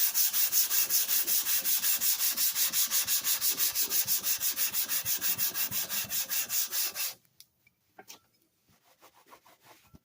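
Cast-iron hand plane sole being rubbed quickly back and forth on 150-grit sandpaper over a flat marble slab, lapping the sole flat: a steady scraping rhythm of about five or six strokes a second that stops about seven seconds in, followed by a few faint taps.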